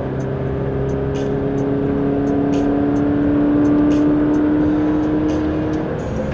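Scion FR-S's flat-four engine running at highway speed over road noise, its note rising slowly for a few seconds and then falling away near the end.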